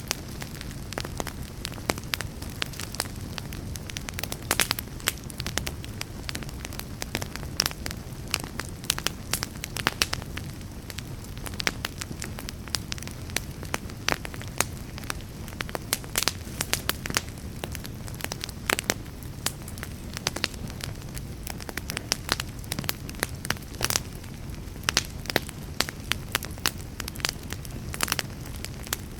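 Fireplace fire crackling: dense, irregular sharp pops and snaps over a steady low rumble of the flames.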